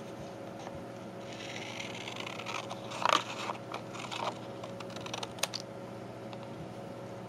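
Scissors cutting thick paper paint sample cards: a rustle of card being handled, then several crisp snips, the loudest about three seconds in.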